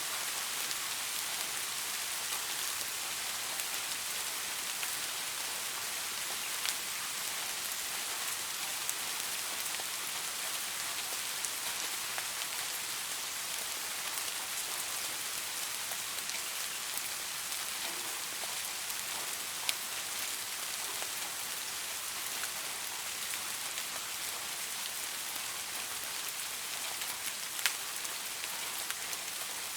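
Steady light rain falling on a surface, an even hiss with scattered individual drop ticks.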